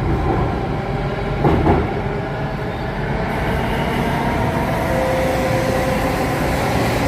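Alstom Metropolis C830 metro train running between stations, heard from inside the cabin: steady rolling and running noise, with a brief louder sound about a second and a half in and a steady hum joining about five seconds in.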